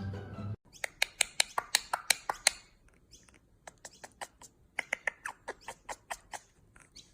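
A small animal's rapid short squeaks or chirps, about three or four a second, in two runs with a pause of about a second between them.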